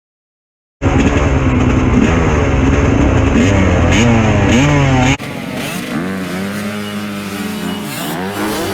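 Dirt bike engines revving, with the pitch climbing and dropping over and over. Two clips are joined: a loud one begins just under a second in, then a sudden cut about five seconds in switches to a quieter bike revving.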